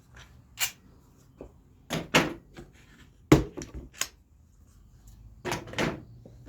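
Clamps being taken off a glued-up wooden frame: a string of knocks and clicks of metal clamps and fence-picket boards being handled and set down on the bench, the sharpest about halfway through.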